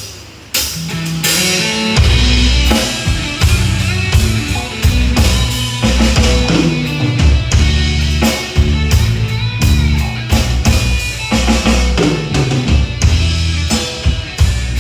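Live band with drum kit, bass and electric guitar playing: a few lone drum hits, then the full band comes in about two seconds in with a heavy bass line and a steady beat.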